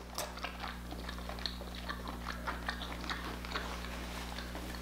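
Close-up chewing of a mouthful of king crab meat: wet mouth clicks and smacks, several a second.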